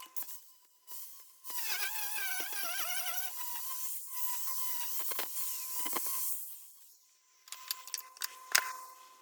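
A power tool running in two bursts of a couple of seconds each, its whining pitch wavering as it works, followed by a few sharp clicks near the end.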